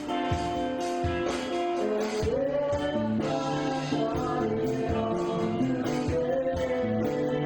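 A rock band playing live: a sung vocal line over guitar, with a drum beat.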